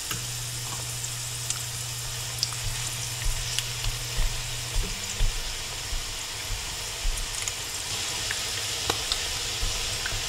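Salmon patties frying in hot oil in a cast iron skillet: a steady sizzle with scattered sharp pops and crackles. From about halfway, a spatula bumps and scrapes in the pan as the patties are turned.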